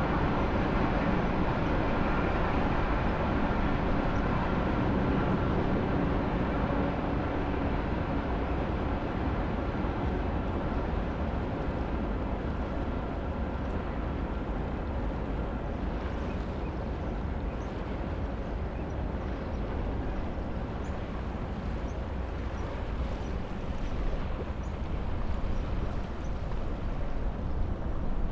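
A passing train receding into the distance, its rumble and wheel tones fading over the first ten seconds or so, over steady wind noise. Faint short bird calls come in during the second half.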